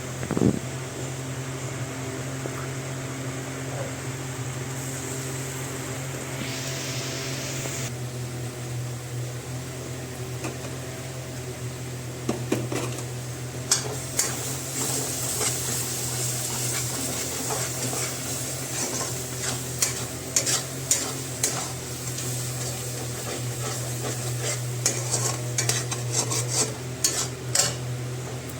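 Spoon stirring and scraping in a pan of frying chicken masala, with a steady low hum throughout. Frequent clicks of the spoon against the pan and a sizzling hiss start about halfway through.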